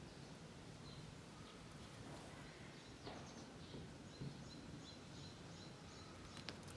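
Faint outdoor background ambience. A bird gives a run of short, high, repeated chirps in the second half, and there is a single sharp click just before the end.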